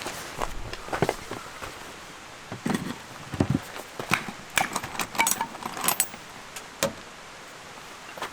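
Irregular light clinks and knocks of gear being handled, with a few duller thumps about three seconds in.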